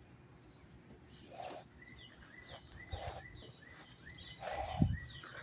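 A bird chirping short, even notes about twice a second, with a louder animal call repeating about every second and a half and a low thump a little before the end.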